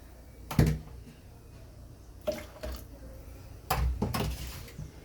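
A few knocks and clunks with splashes of liquid: the blender jar being handled and loaded with coconut pulp and warm water, ready to blend again. The loudest clunk comes early, and a longer cluster of knocks and splashing comes near the end.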